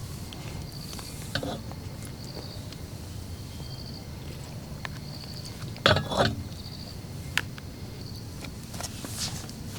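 An insect calling in short, high-pitched trills that repeat about every second and a half, over a steady low background noise. Scattered knocks and rustles of handling come through, the loudest about six seconds in.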